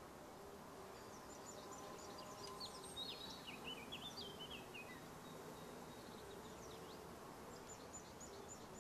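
Faint outdoor ambience with small birds chirping: quick runs of high chirps from about one to five seconds in, and again near the end.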